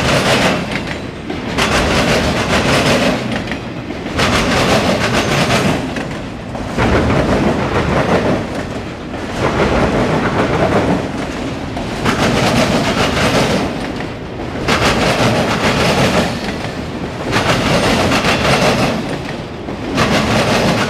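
Freight cars of a CSX mixed freight train rolling past on steel rails. The wheels rumble and clatter, and the sound swells and dips about every two and a half seconds as each car goes by.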